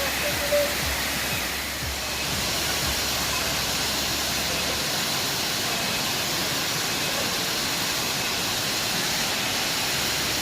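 Waterfall rushing steadily: a constant, even noise of falling water.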